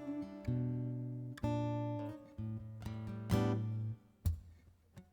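Acoustic guitar strumming slow chords between sung lines of a ballad, each chord ringing out and fading before the next. The playing thins to near quiet for about a second near the end.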